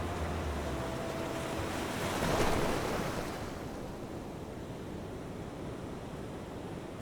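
Ocean waves washing; one wave surges up about two and a half seconds in, then subsides into a steady wash.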